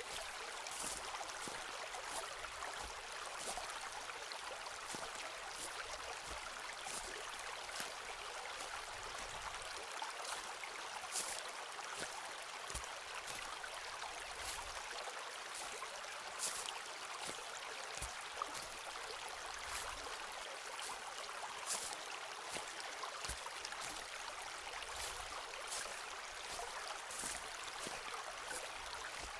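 Footsteps walking on a forest floor: short light crunches, roughly one every half second to a second, over a steady rushing hiss.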